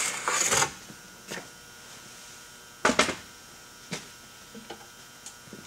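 A few short, sharp knocks and clicks from objects being handled, the loudest a pair about three seconds in, over quiet room tone.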